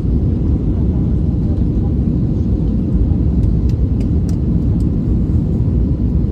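Steady low rumble of airliner cabin noise in flight: engine and airflow drone filling the low end, with a few faint ticks around the middle.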